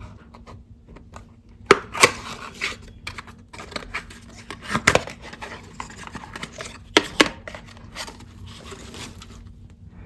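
Cosmetics packaging being handled and unwrapped: plastic and paper crinkling and rustling, broken by several sharp clicks and taps, the loudest about two, five and seven seconds in.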